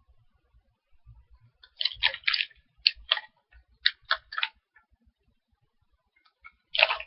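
Crunchy pumpkin spice cookies being chewed close to the microphone: a run of short, crisp crunches in irregular clusters. A louder, denser crackling noise starts right at the end.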